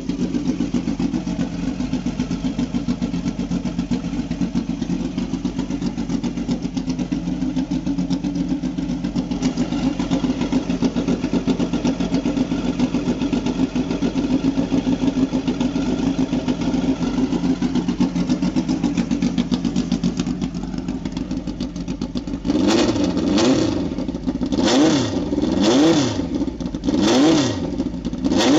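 The exposed, twin-carburettor engine of a tube-frame race car idles steadily. About 22 seconds in, it is blipped sharply five or six times, the revs rising and falling quickly each time.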